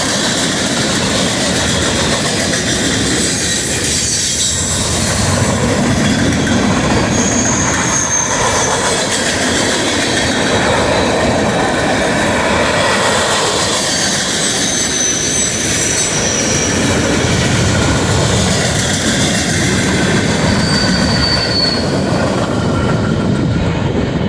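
Freight train cars rolling past on the rails, with a steady rumble of wheels on track and several brief high-pitched wheel squeals.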